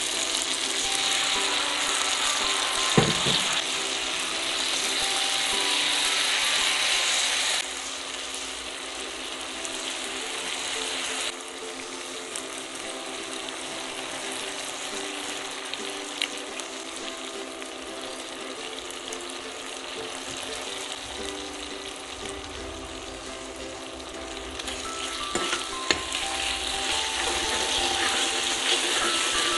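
Onion, capsicum and garlic frying in oil in an aluminium wok, a steady sizzle that drops in level twice and swells again near the end as the mix is stirred. A metal spoon clicks against the pan a couple of times.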